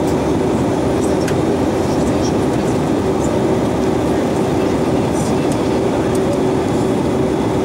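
Steady cabin noise inside an Airbus A320-232 airliner: an even rush of air with a steady drone from the engines and air system.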